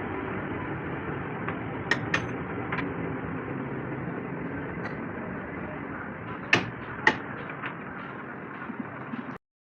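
Metal-workshop noise: a steady running background with several sharp knocks, the two loudest about six and a half and seven seconds in; the sound drops out just before the end.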